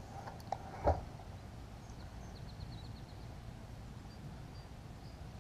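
Quiet outdoor ambience over water, with a small click and then a short knock just under a second in. A little later comes a faint, quick run of high chirps.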